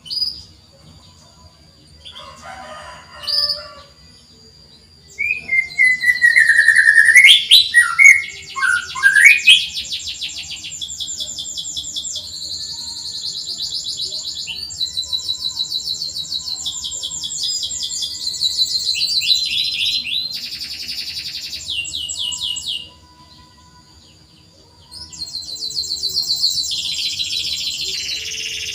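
Domestic canary singing: fast rolling trills of high repeated chirps ("cuit cuit"), with lower whistled slides in pitch early on and a short break near the end.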